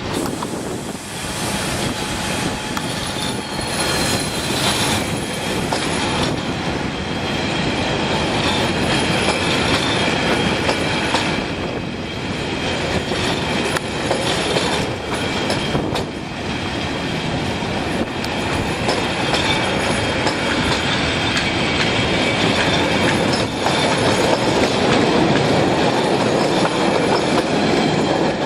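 Train running along the track, wheels rolling with a rhythmic clatter over the rail joints and faint high wheel squeal; the sound grows a little louder near the end.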